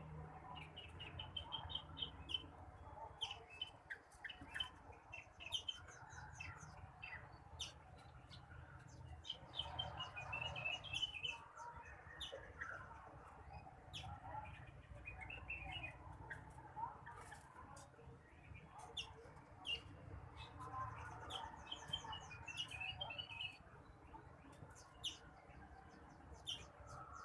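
Blue-winged leafbird (rengganis, cucak wilis) singing a run of rapid chirps and short trills in repeated bursts, mixed with sharp ticks, over a faint low hum.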